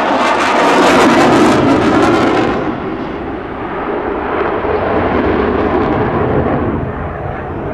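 Eurofighter Typhoon's twin Eurojet EJ200 turbofans at high power, loud, with a harsh crackle for the first two and a half seconds, then easing into a duller, steady rumble.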